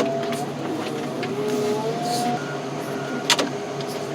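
Heavy equipment engine running with a shifting hydraulic whine, and two sharp metal clanks, the louder one about three seconds in.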